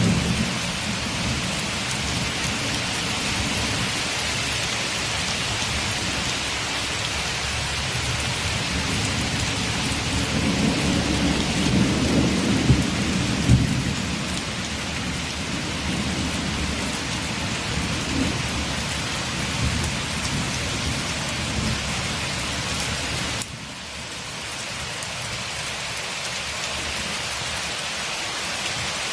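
Steady heavy rain with low rolling thunder rumbling through the middle, strongest about a third of the way in. The rain sound drops abruptly, a little quieter, about three-quarters of the way through.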